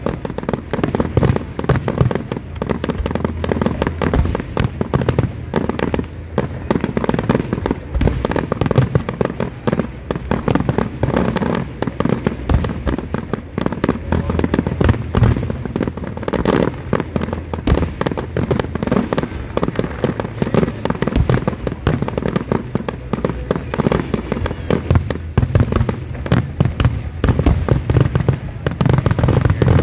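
Aerial firework shells bursting in a rapid, continuous barrage of sharp reports, many overlapping each second.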